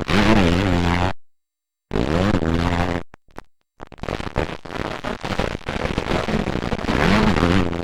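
Motocross dirt bike engines revving hard, their pitch climbing and dropping again and again through throttle and gear changes. The sound cuts off abruptly to silence twice, for under a second each time.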